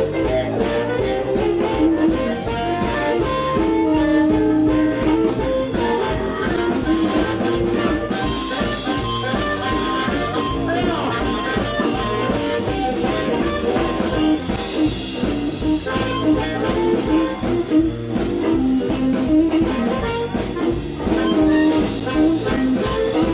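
Live blues band playing an instrumental passage: guitar over a steady drum-kit beat and bass, with no singing.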